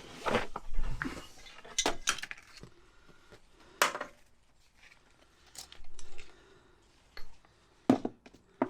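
Metal parts being handled: a few sharp clinks and knocks, loudest near four seconds and twice near the end, with soft scraping between them, as seatbelt hardware is taken down and fitted.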